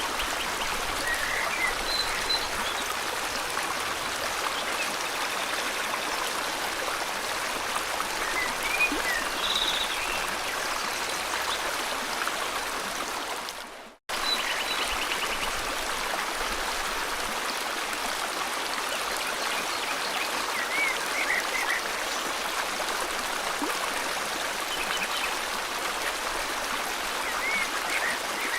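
River water flowing with a steady rush, with scattered short chirps and quick trills from small birds. About halfway through, the sound fades out to silence for an instant and comes straight back.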